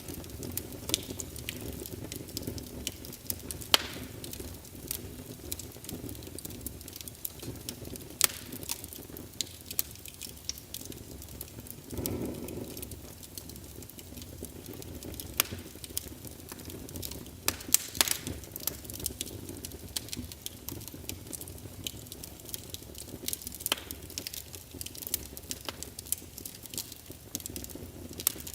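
Wood fire crackling in a fireplace: a steady low rush of flame with frequent, irregular sharp pops and snaps, a few of them noticeably louder.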